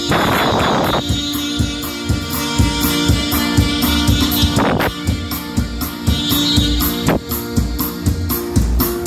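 A band playing an instrumental passage without singing: a fast, regular drum beat under held notes, with plucked strings.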